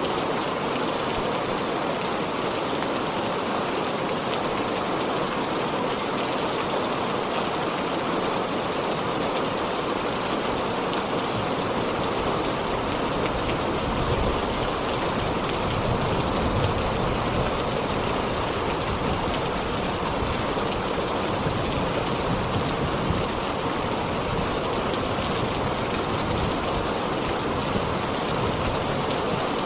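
Heavy rain falling steadily in a dense, even hiss, with a deeper low rumble coming in around the middle.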